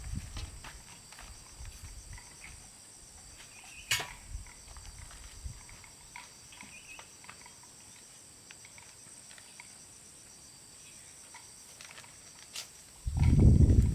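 Steady high chirring of an insect chorus, with scattered light clicks and a sharper knock about four seconds in. Near the end a loud low sound breaks in.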